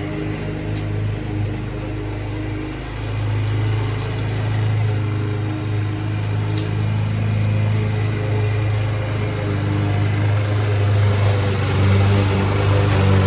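Mountfield Empress 16 lawn mower's petrol engine running steadily, burning off oil that reached the cylinder when the mower was tipped up the wrong way.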